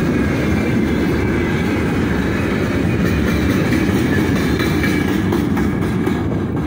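Freight train's open-top gondola wagons rolling past close by on the rails, their wheels running steadily with occasional clicks, the sound easing as the last wagon goes by near the end.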